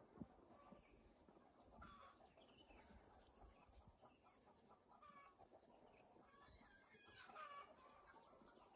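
Faint bird calls: short gliding notes repeated every second or so, with a faint steady high tone underneath.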